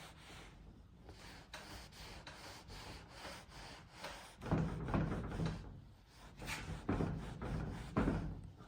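A rag wiping softened paint and paint stripper off a timber cabinet top. It is a quiet scuffing at first, then several louder rubbing strokes in the second half.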